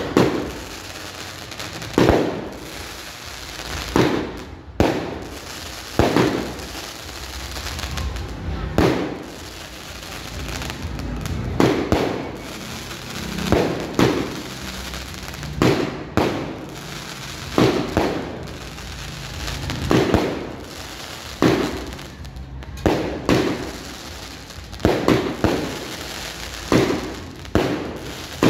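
Aerial fireworks shells bursting overhead: a sharp bang every second or two, each trailing off in an echo, with the bangs coming faster near the end.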